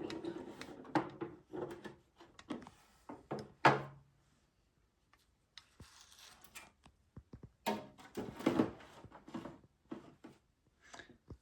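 A toy monster truck, rocks and flowers being set down in a plastic container: irregular knocks and thunks with some rustling, a louder knock about four seconds in and a cluster of knocks around eight seconds in.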